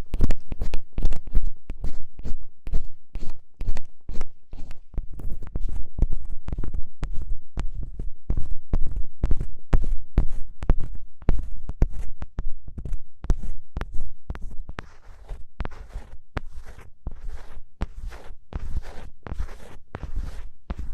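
Ear pick scratching and scraping firmly inside an ASMR microphone's ear, several quick strokes a second with heavy low-end rumble. About fifteen seconds in the strokes turn a little lighter and hissier.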